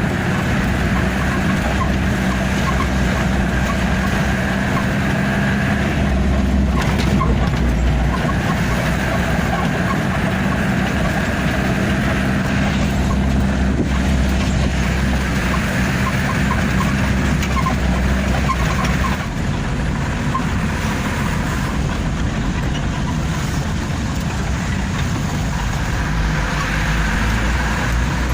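Truck engine running steadily on the move, with road noise and light rattling.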